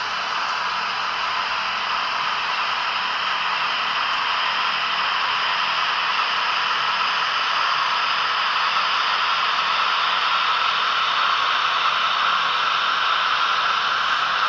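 Märklin H0 model train running on its track: a steady whirring rush of motor and metal wheels rolling on rails, slowly growing louder.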